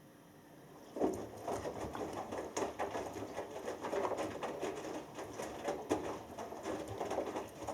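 Washing machine drum starting to turn about a second in after a pause, tumbling the wet laundry with irregular sloshing of water and soft knocks and clicks during the wash phase of a cotton cycle.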